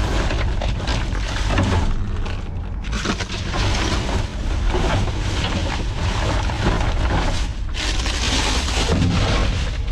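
Rummaging through dumpster contents: dense, irregular rustling and crunching of bags and trash over a low rumble. It lets up briefly twice.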